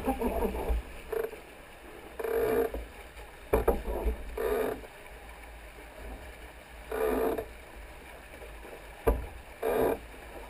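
Water splashing and slapping against the hulls of a Hobie 20 catamaran under sail, in short splashes every two seconds or so. Underneath runs a low wind rumble on the microphone, with a few sharp knocks.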